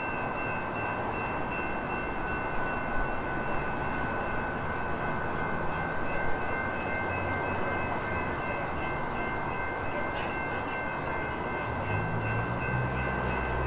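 BNSF freight train of covered hopper cars standing on the track: a steady rushing noise with thin, high ringing tones held throughout. A few light clicks come in the middle, and a low rumble comes in near the end.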